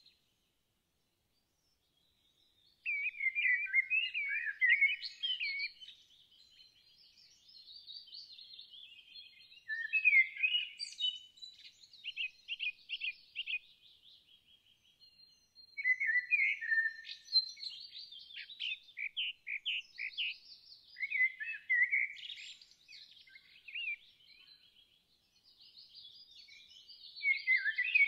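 Near silence for about the first three seconds, then songbirds singing: a run of high, warbling and trilling phrases, each a few seconds long, with short pauses between them.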